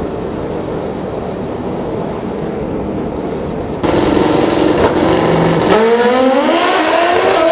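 Drag racing motorcycle engines: a steady low engine rumble, then a sudden jump in loudness about four seconds in, and near the end an engine revving up with its pitch climbing steadily as the bike accelerates.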